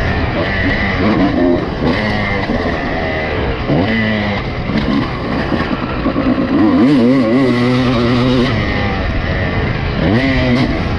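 Honda CR250 two-stroke motocross bike engine revving hard and dropping back again and again, with the pitch climbing through the gears and falling off between bursts. It holds a long high-revving run just past the middle.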